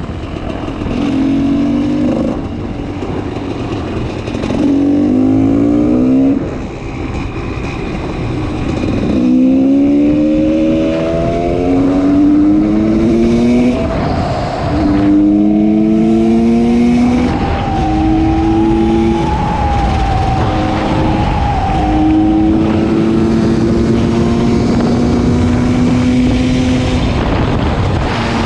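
GasGas 300 EC single-cylinder two-stroke through an FMF Powercore 2 exhaust, accelerating up through the gears. The pitch climbs and drops back at each shift, then holds steady near the end.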